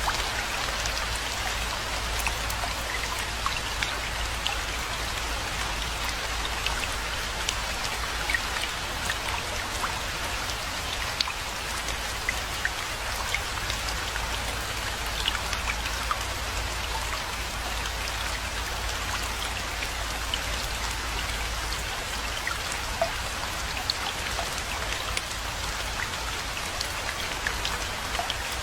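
Steady rainfall, an even hiss of rain with many individual drops ticking sharply throughout, over a steady low rumble.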